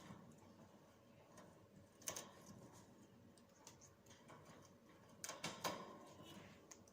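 Faint scattered clicks and rustles of an African grey parrot picking at and handling neem leaves, with louder clusters about two seconds in and again around five seconds in.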